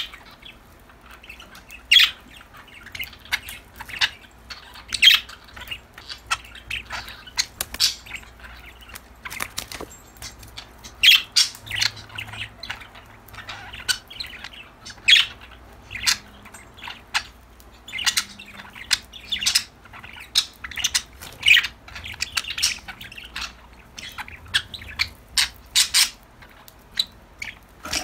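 Pet budgerigars chirping, a run of short, sharp calls one after another at an irregular pace.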